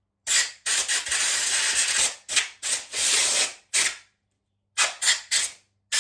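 Compressed-air blow gun from a compressor blasting dirt and cleaner out of a bicycle pedal body in a series of short hissing bursts, with one longer blast about a second in.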